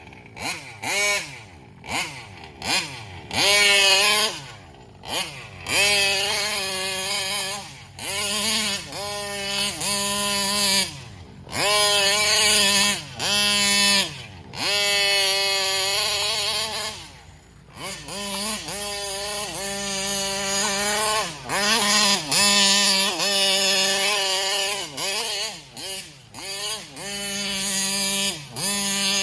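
Taylor 35cc reed-valve two-stroke engine in an RC car, revving hard and falling back over and over as the car is driven in full-throttle bursts, dropping briefly toward idle between them.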